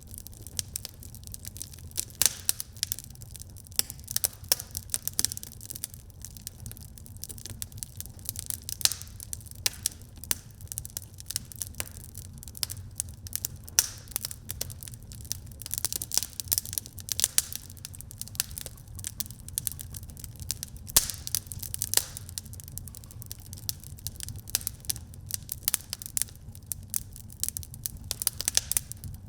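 Wood fire burning in a fireplace, crackling and popping with many sharp snaps over a low steady rumble of the flames.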